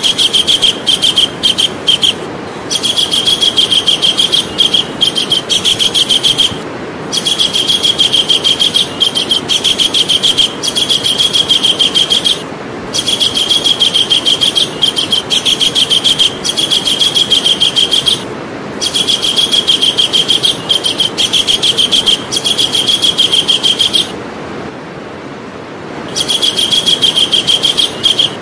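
Javan kingfisher calling: a fast, rattling run of high, sharp repeated notes, given in bouts of about four to six seconds with short breaks between, and a longer break near the end.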